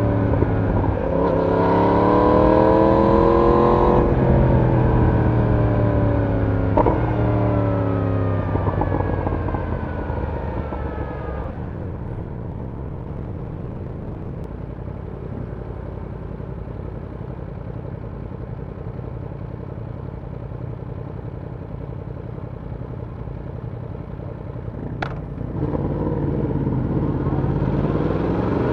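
Yamaha YZF-R1 inline-four engine's exhaust pulling up through two upshifts, then falling in pitch as it slows. It then idles steadily for about thirteen seconds. Near the end there is a sharp click and the engine revs up again to pull away.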